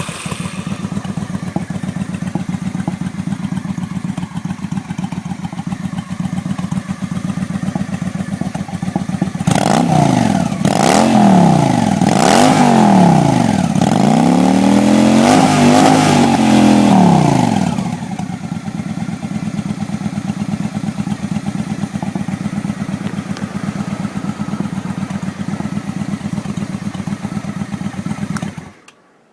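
Honda VT750 V-twin motorcycle engine with an aftermarket Cobra exhaust, idling. About ten seconds in, the throttle is blipped several times for roughly eight seconds, the engine note rising and falling with each rev, before it settles back to a steady idle. The sound cuts off suddenly near the end.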